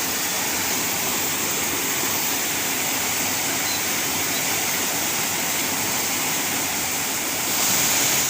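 Waterfall on a mountain stream: a steady rush of falling water that grows a little louder and brighter near the end.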